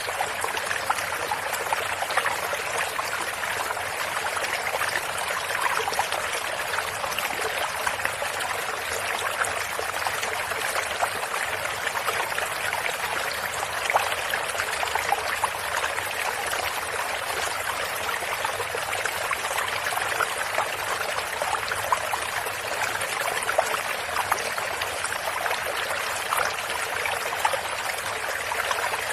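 Stream water flowing over stones, a steady babble with many small splashes and trickles throughout.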